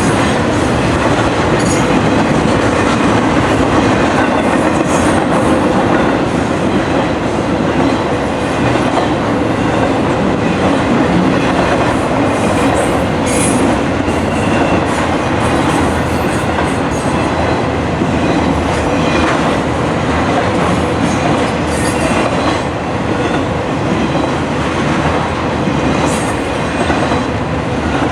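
A train's cars rolling past close by: a steady loud rumble and clatter of wheels on rail, with a few brief high wheel squeals.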